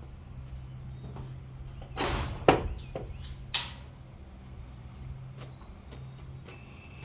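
Handling sounds at a box truck: a half-second slide ending in a sharp bang, then a second sharp bang about a second later, over a steady low hum.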